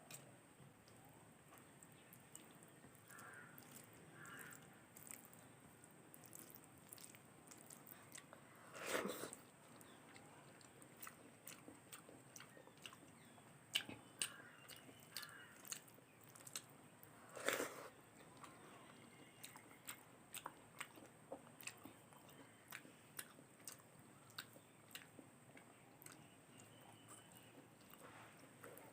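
A person eating close to the microphone: soft chewing and small wet mouth clicks throughout, with two louder crunchy bites, one about a third of the way in and one a little past the middle.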